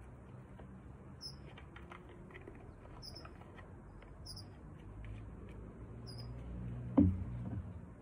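Outdoor ambience with short, high bird chirps repeating about once a second over a low steady background rumble. A single dull thump about seven seconds in is the loudest sound.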